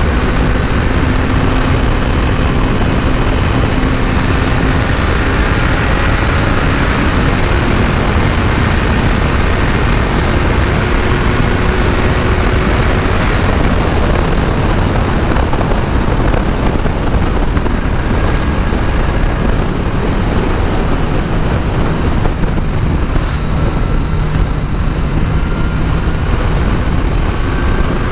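Kawasaki Z900's inline-four engine running at a steady cruise, mixed with heavy wind rush on the onboard microphone. The engine note is faint under the wind and sits a little lower in the second half.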